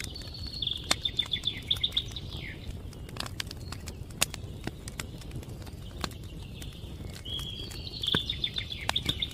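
A small songbird sings a fast trill of repeated high notes twice, once at the start and again near the end. A wood campfire crackles throughout with scattered sharp pops.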